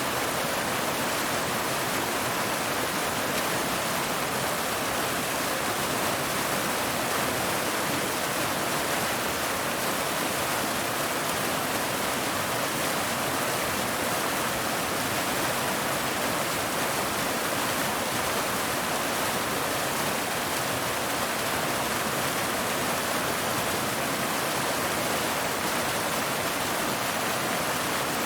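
Waterfall: a steady, unbroken rush of falling water, strongest in the middle and upper range with little deep rumble.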